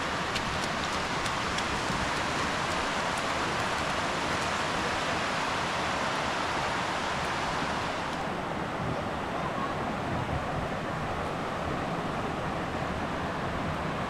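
Steady rushing of water over a small waterfall on the Chagrin River, an even hiss; about eight seconds in it turns duller as the highest part of the hiss drops away.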